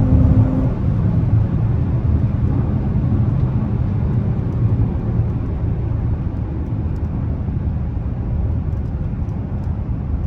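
Dodge Charger V6 driving, heard from inside the cabin: a steady low engine and road rumble. A pitched engine note fades out in the first second.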